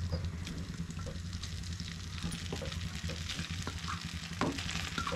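Pieces of steamed idli dropping into hot oil in a kadai and starting to sizzle, with a few soft knocks as pieces land. The sizzling grows louder through the second half, over a steady low hum.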